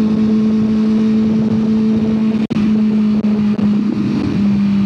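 A truck engine running loud and steady, held at raised revs, giving an even drone. The sound breaks off briefly about two and a half seconds in, then the drone returns a little lower in pitch.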